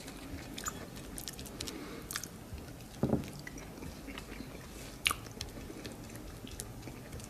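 A person chewing and eating: wet mouth sounds and short sharp clicks and smacks, with a dull low thump about three seconds in.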